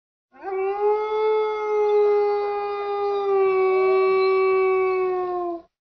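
Grey wolf howling: one long call that rises quickly, then holds a steady pitch for about five seconds and sags slightly before it stops abruptly.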